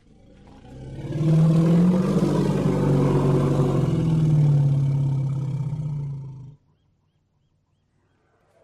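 An elephant's long, low call, swelling over about a second, holding steady for several seconds, then stopping abruptly, followed by a few seconds of near silence.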